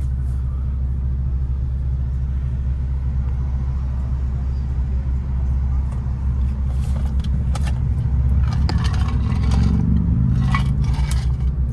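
Infiniti G37's VQ37 V6 with full-bolt-on exhaust, heard from inside the cabin as a steady low exhaust drone while driving. It swells and climbs a little in pitch about eight seconds in as the car accelerates, with a few light rattles near the end.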